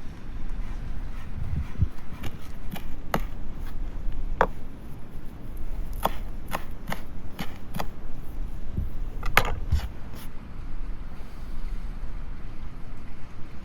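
Knife chopping on a cutting board in irregular single strokes, about a dozen sharp knocks that stop about ten seconds in, over a steady low rumble.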